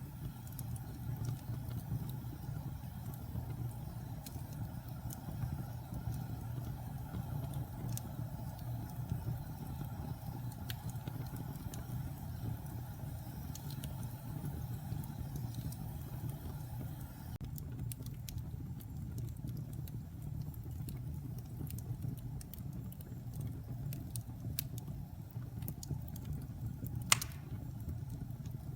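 Wood fire burning in a fireplace: a steady low rumble of flames with scattered small crackles and one loud sharp pop near the end.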